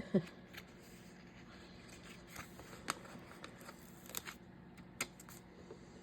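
Paper being handled: sticker sheets and book pages rustling, with a few light, scattered clicks and ticks.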